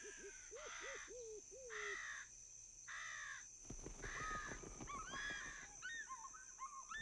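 Faint forest bird ambience: harsh caws repeat about every half second for the first three and a half seconds, with a lower call under them at first. Then come quicker, higher chirping calls.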